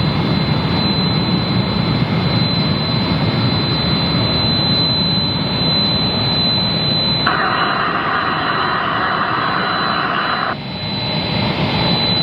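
Jet airliner engines running loud and steady, a heavy rumble with a thin high whine on top. About seven seconds in, a burst of air-band radio hiss cuts in for some three seconds and stops abruptly.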